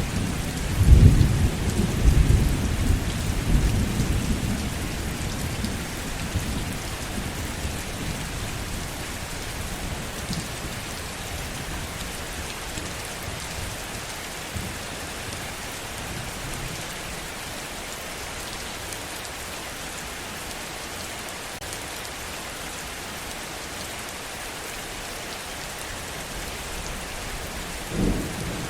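Heavy rain falling steadily, with a rumble of thunder in the first few seconds that dies away, and another short rumble starting near the end.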